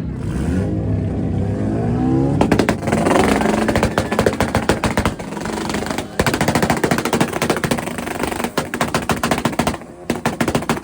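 Honda Civic engine revved up against a two-step launch-control limiter, firing a rapid machine-gun string of exhaust pops and bangs that runs for about eight seconds before easing off near the end.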